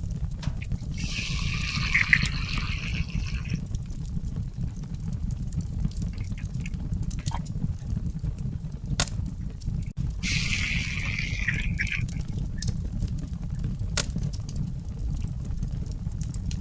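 Liquid being poured twice, for about two and a half seconds and then nearly two seconds, over a steady low rumble.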